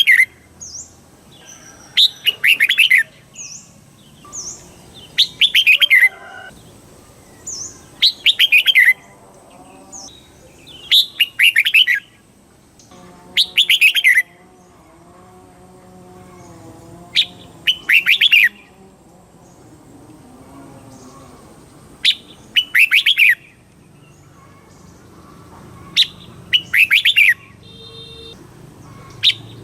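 Red-whiskered bulbul singing: short, loud phrases of quick rising and falling notes, repeated about every three seconds, with faint short chirps in the gaps between phrases.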